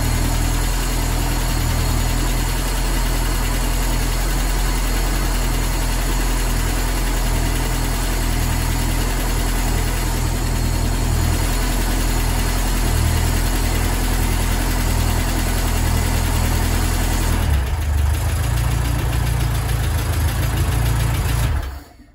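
A supercharged VW air-cooled flat-four engine running steadily on its first start after the AMR500 supercharger kit was fitted. It shuts off suddenly near the end.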